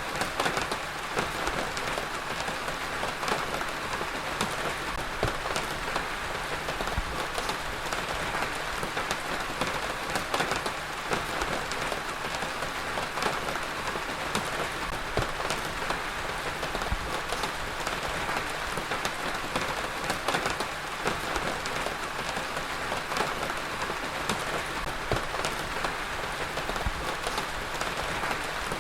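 Heavy rain falling steadily on a surface: a dense even hiss with many individual drop impacts ticking through it.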